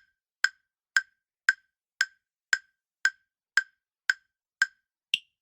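Countdown timer sound effect: short sharp ticks, about two a second, ending with a single higher-pitched tick.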